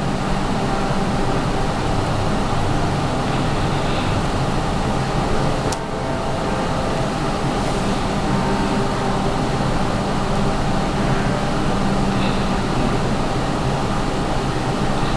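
A steady mechanical hum, with one sharp click about six seconds in.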